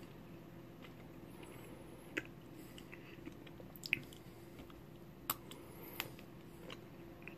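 A person chewing wax crayon: quiet mouth sounds with four or five sharp crunches spread through.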